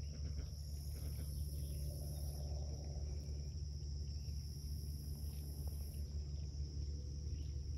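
Insects calling: a steady high trill with a higher, shriller chorus over it that swells and drops away in waves of about two seconds. A low steady rumble runs underneath.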